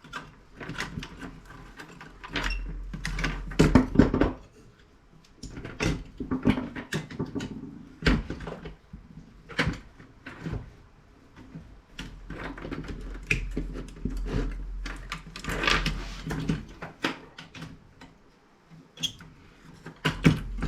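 Snips cutting parts off a CRT monitor's circuit board: irregular clicks, snaps and clatter of the tool and the board being handled, some sharp and loud, with a low rumble of handling underneath.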